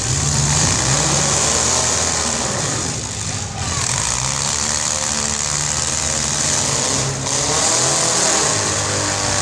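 Demolition derby cars' engines revving hard, their pitch rising and falling, as one car shoves another against the wall.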